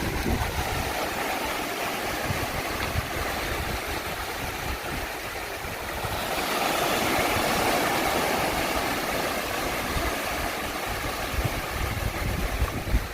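Wind buffeting the microphone with a low, gusty rumble over the wash of surf, swelling about halfway through as a wave washes in.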